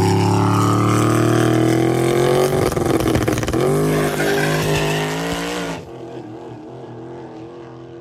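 Ford Mustang drag car's engine revving up on the starting line, then launching and accelerating hard away, its pitch climbing. About six seconds in the sound drops abruptly to a much fainter, wavering engine note from far down the track.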